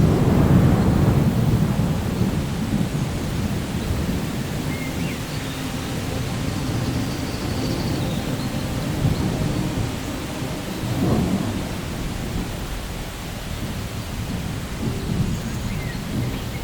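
Steady rain with rolling thunder. The loudest deep rumble comes in the first couple of seconds, and a smaller one about eleven seconds in.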